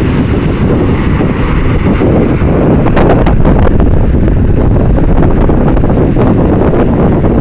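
Strong wind buffeting the microphone, a loud, steady low rumble over the wash of sea surf.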